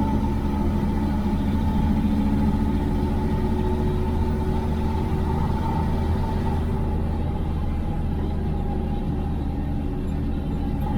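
The IFA L60 truck's diesel engine running steadily, heard from inside the cab, with a low hum and a higher whine from the drivetrain.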